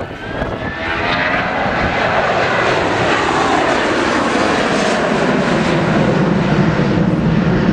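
Jet airliner flying past low. The engines' whine falls in pitch as it passes, then gives way to a loud, deep rumble.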